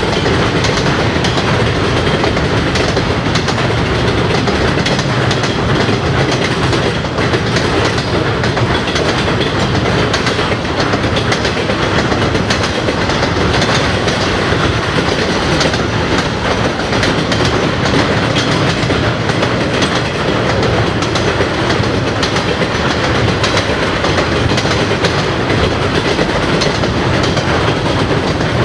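Long intermodal freight train of trailer and container flatcars rolling past over a girder railroad bridge: steady, loud wheel-and-rail noise with a constant run of clicks as the wheels pass over the rail joints.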